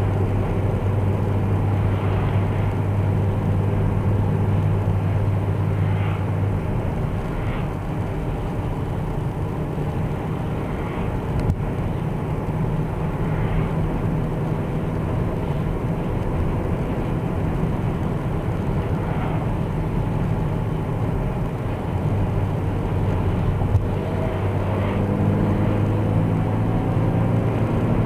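Cabin noise inside an Opel Astra H at road speed with the windows shut: steady road and wind noise under a low droning hum. The hum fades out about six seconds in and comes back about twenty-two seconds in. It is the unexplained howl the owner is trying to trace.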